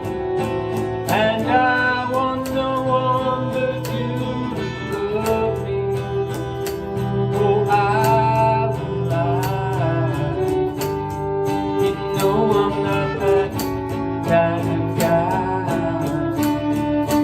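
Country band playing an instrumental passage: lead guitar notes bending up and down over strummed guitar, bass and a steady drum beat.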